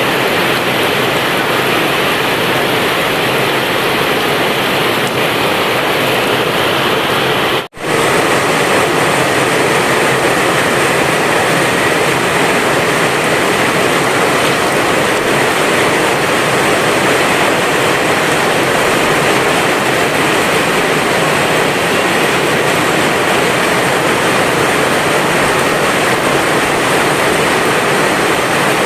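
Heavy rain pouring down in a steady, loud rush. It drops out for an instant about eight seconds in, then carries on unchanged.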